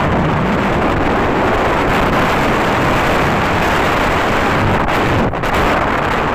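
Strong wind buffeting the microphone on a moving ferry, a loud steady rush with a brief lull about five seconds in.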